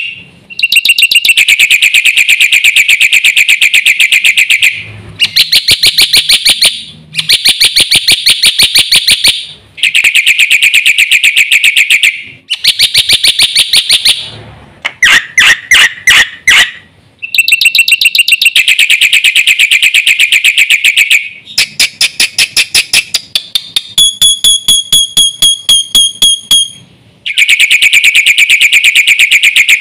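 Black-winged starling (jalak putih) singing loudly in rapid chattering trills, in phrases of a few seconds broken by short pauses. About two-thirds of the way through comes a run of evenly spaced, beep-like notes, like an alarm.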